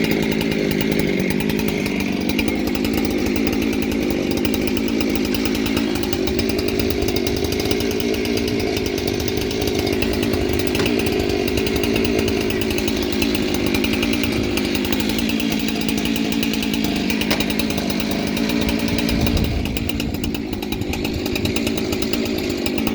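Two-stroke Husqvarna 365 chainsaw, fitted with a modified transfer port cover that makes it essentially a 372, running steadily while it warms up before a milling cut.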